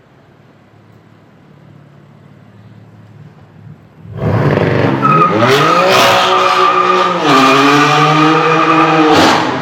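BMW M4 F82's twin-turbo inline-six through a valved Fi-exhaust, idling faintly, then about four seconds in opening up loudly under hard acceleration. The engine note climbs in pitch, holds, drops once about seven seconds in, then cuts off sharply near the end.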